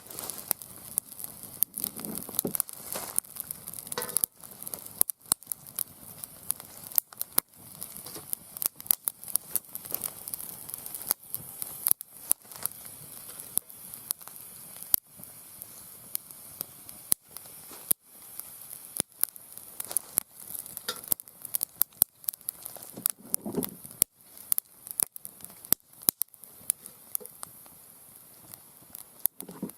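Wood fire burning in a round fire pit, crackling with irregular sharp pops over a steady hiss.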